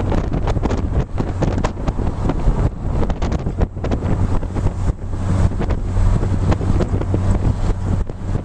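Gusty storm wind buffeting the camera's microphone in loud, uneven blasts, over a steady low hum.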